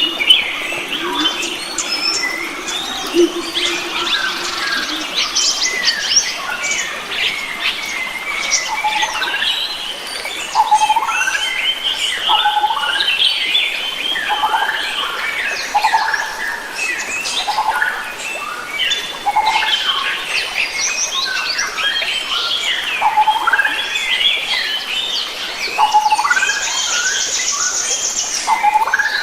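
Mixed chorus of wild forest birds chirping and singing over one another, one bird repeating a short call every second or two. A dense buzzing trill comes in briefly near the end.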